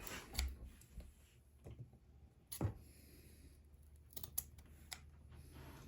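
A few faint, scattered clicks and taps of small objects being handled on a workbench, the sharpest about two and a half seconds in, as a piece of scrubbing pad is readied for cleaning a pocketknife.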